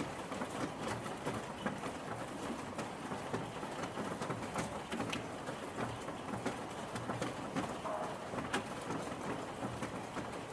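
Steady rain falling, with single drops now and then landing sharply and close.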